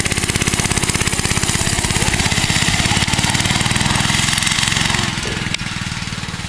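Mini bike's small engine running with a fast, even pulsing. The sound gets quieter about five seconds in.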